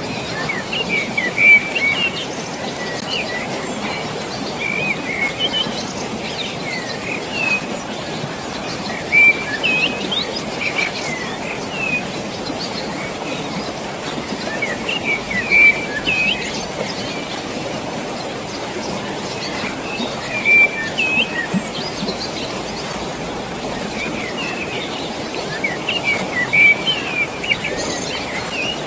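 Songbirds chirping in short clusters every few seconds over a steady rush of flowing water.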